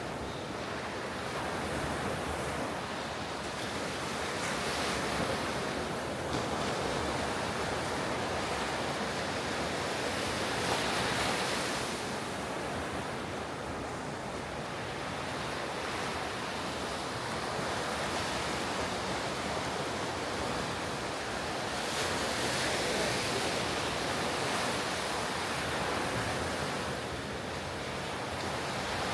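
Ocean surf breaking on a beach: a continuous wash of waves that swells and eases every few seconds, with some wind on the microphone.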